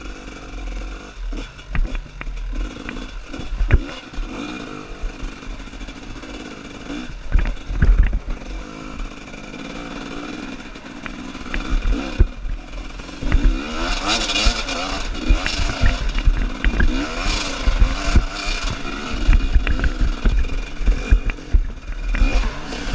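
Trail dirt bike engine running and revving, its pitch rising and falling, louder and busier in the second half, with a few sharp thumps along the way.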